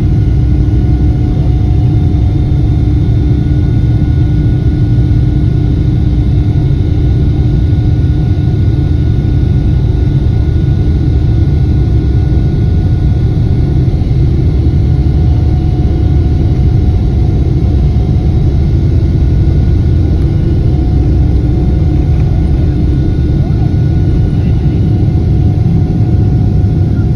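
GE90-115B turbofan engines of a Boeing 777 running at a loud, steady level: a deep rumble with several steady whining fan tones over it.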